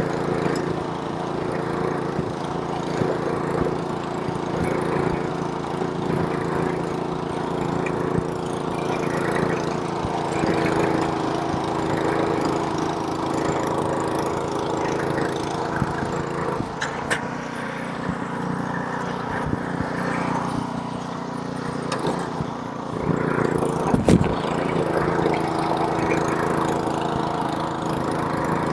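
Small gasoline engine of a snowblower running steadily while clearing snow. Its note changes for several seconds past the middle, and a single sharp knock sounds near the end.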